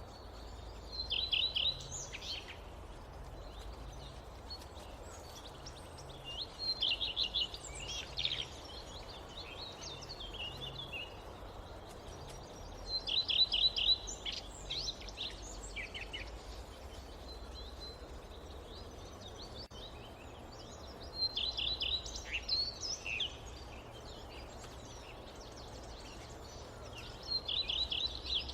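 A songbird repeating a short phrase of rapid high notes, about a second and a half long, five times at intervals of roughly six seconds, over a steady low background rumble.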